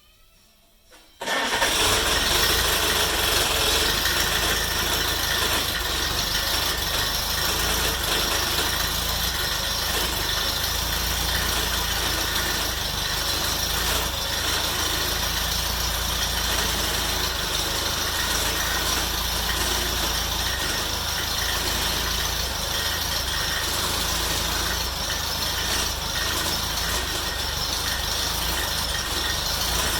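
An engine running steadily. It cuts in abruptly about a second in, most likely the rebuilt 1948 Farmall Cub's four-cylinder engine running.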